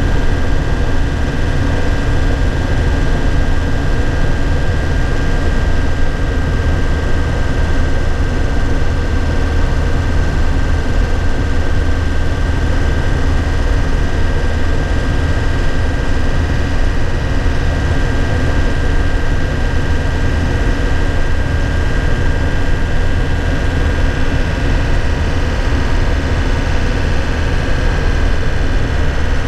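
A 2001 Nissan Cabstar light truck's diesel engine droning steadily from inside the cab while driving at a constant pace, with a steady high whine above it that drops slightly in pitch near the end.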